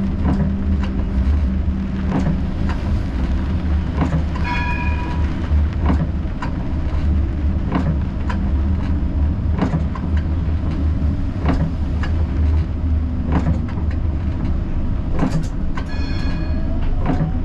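Siemens Combino tram running on its rails, heard from the driver's cab: a steady low rumble with irregular clicks and knocks from the wheels on the track, and a short ringing tone twice.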